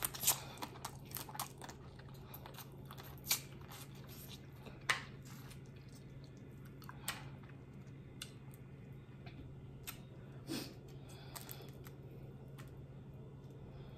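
Close-miked eating sounds of a person chewing seafood-boil food. Scattered sharp mouth clicks and smacks come thickest in the first second or so and then every second or two, over a steady low hum.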